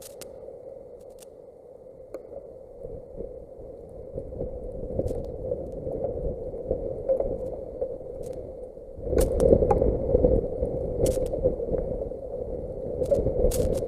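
Strong thunderstorm wind buffeting the microphone with a low rumble. It builds and gusts hardest about nine seconds in, with scattered sharp ticks.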